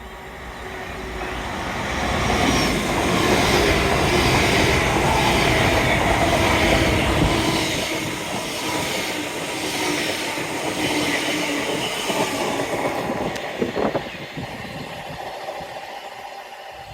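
A train passing on the main line, growing louder over the first couple of seconds, loudest for about six seconds with a regular clatter of wheels over the rails, then fading away.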